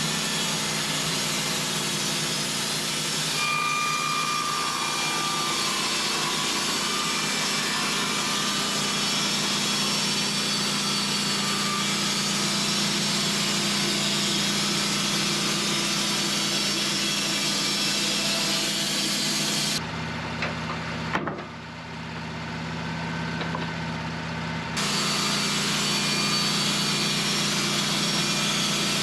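Portable sawmill's engine running steadily, with the sound shifting to a quieter, lower tone for about five seconds after the two-thirds mark before returning.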